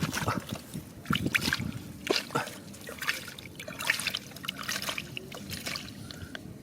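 Water splashing and trickling in a shallow mountain stream, broken by irregular short clicks and splashes.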